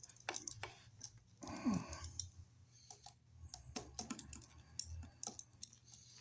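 Irregular small clicks and scrapes of a screwdriver tightening the wire terminal screws on an electrical outlet, with a brief low vocal sound about a second and a half in.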